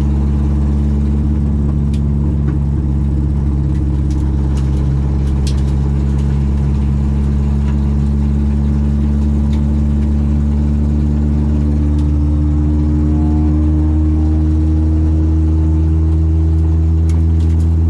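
Citroen AX's four-cylinder 8-valve engine on twin Weber 40 carburettors running at a steady pitch, the pitch climbing slowly in the last few seconds.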